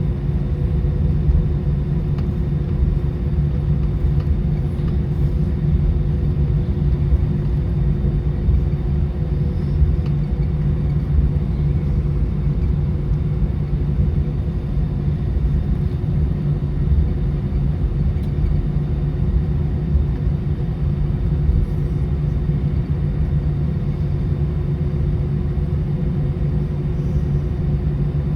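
Airbus A319 cabin noise heard from a window seat: a steady, loud rumble of the engines and the airframe, with a constant low hum running through it.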